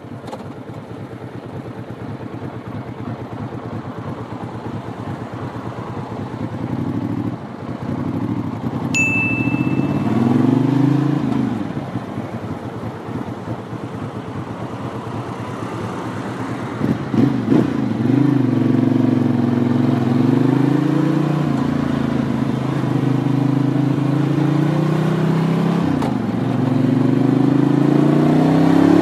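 Ducati 750 Sport's air-cooled L-twin engine running under wind noise, then pulling up in revs several times with the pitch dropping at each gear change. A short high beep sounds about nine seconds in.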